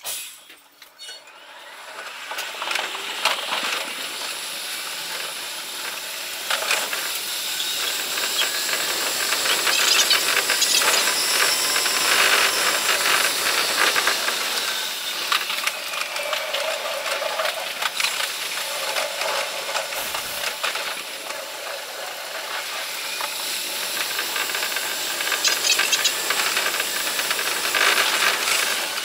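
Seibu Shinjuku Line electric train's running noise, sped up five times, heard from the cab: a hissing rush of wheel and track noise thick with rapid clicks. It starts quiet and swells after about two seconds as the train pulls away and gathers speed.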